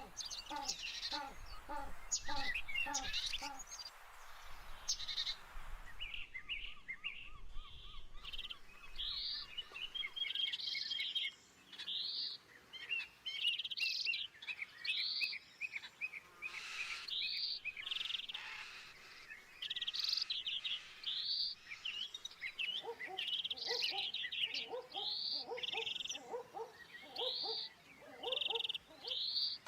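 Birds chirping and singing: short high chirps repeating about once a second, with a lower call repeated steadily over the first few seconds and again near the end.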